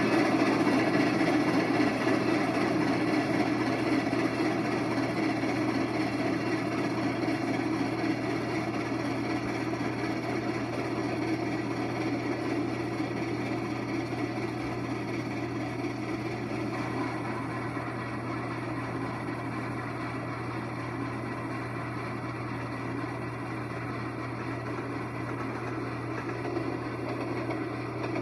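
A long passenger train rolling by: a steady rumble of wheels on the rails that slowly gets quieter.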